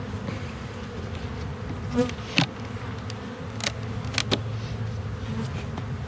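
Honeybees buzzing steadily around an opened hive. A few sharp clicks and knocks stand out, about two seconds in and again around three and a half to four and a half seconds.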